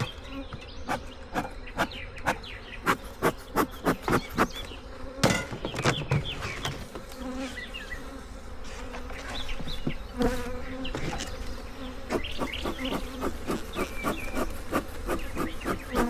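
Honeybees buzzing around an opened hive, a continuous hum that shifts in pitch as bees fly close. A run of sharp clicks or knocks, about two or three a second, is heard over it in the first few seconds.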